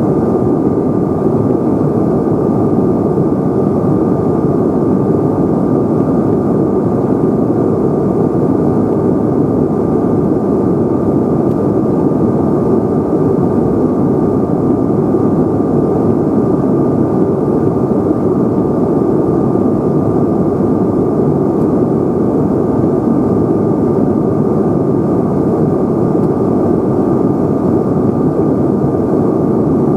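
Steady roar of a Bombardier CRJ-900's rear-mounted turbofan engines and airflow heard inside the cabin, with a thin steady whine above the rush, unchanging throughout.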